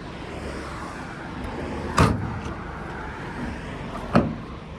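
Two clunks from a small pickup truck's door being worked, the first louder, about two seconds apart, over a steady low rumble.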